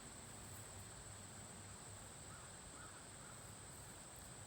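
Near-silent outdoor background with a steady faint high hiss, and a few faint, distant bird calls about halfway through.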